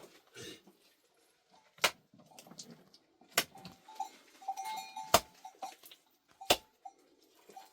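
Four sharp knocks, about one and a half seconds apart, with a faint short pitched call between the second and third.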